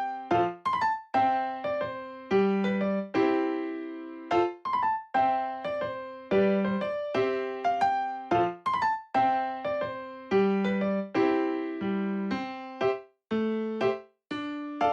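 Background music: a light, bouncy electric-piano tune of short struck notes that die away, over a repeating bass note.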